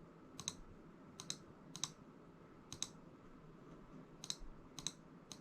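Light, sharp clicks of small hard parts being handled and fitted together during assembly, about seven at irregular intervals over a quiet room.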